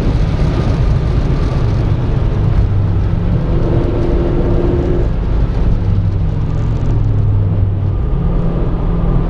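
Renault Clio RS 220's engine running hard at lap speed, heard from inside the car over heavy road and tyre noise, its note stepping down and back up several times as revs change.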